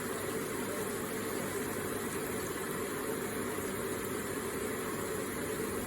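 Electric water feature running: water trickling and splashing in a steady, unbroken wash.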